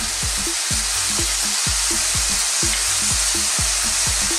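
Pork liver frying in hot oil in a wok, a steady loud sizzle as soy sauce is poured over it. Background music with a steady low beat runs underneath.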